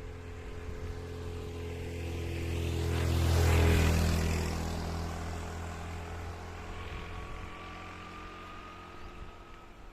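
A motor vehicle drives past on the road: its engine grows louder, peaks about three and a half seconds in with a drop in pitch as it goes by, then fades away.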